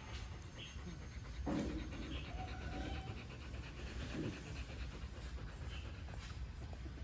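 A dog panting in quick, short breaths, with a single thump about a second and a half in.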